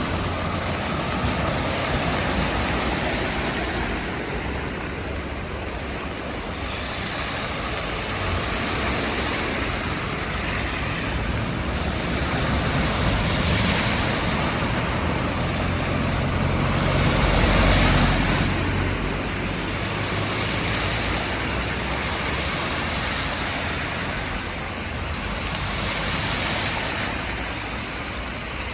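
Heavy typhoon rain with traffic driving through water on a flooded road. The wash of tyres swells and fades as vehicles pass, with the loudest, deepest pass a little past the middle.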